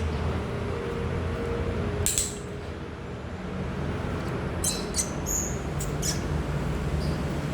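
Yellow-sided conure making a few brief, high squeaks and scratchy clicks over a steady low hum.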